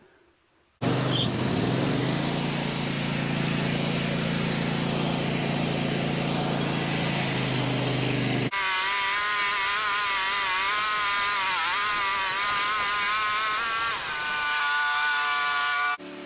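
Sawmill running and cutting through a hard maple log, a steady engine note under the noise of the blade in the wood. About halfway through the sound switches abruptly to a higher, wavering engine note, which shifts again near the end.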